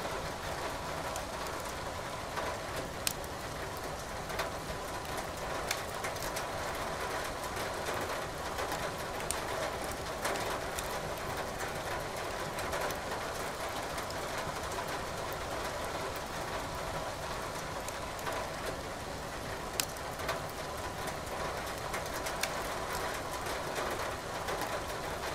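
Firewood crackling in a fireplace, with sharp pops every few seconds, over a steady hiss of rain.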